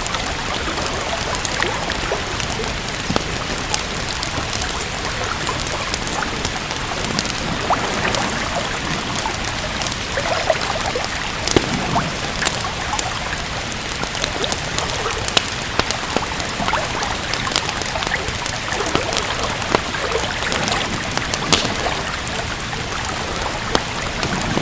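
Steady rain mixed with a crackling wood fire: a constant hiss of rain with many small, sharp pops scattered through it.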